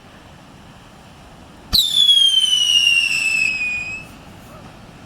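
A whistling firework goes off with a sharp crack, then gives one loud whistle of about two seconds that slides steadily down in pitch and fades out.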